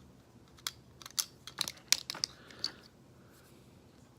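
Sharp plastic clicks and taps, about eight in two seconds, as a plastic Transformers figure and its accessory swords are handled and fitted together; then the clicking stops.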